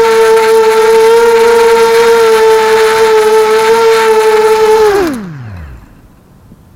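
QAV250 quadcopter's brushless motors whining at a steady high pitch, then about five seconds in the pitch falls away quickly as the motors spin down to a stop, leaving faint wind noise.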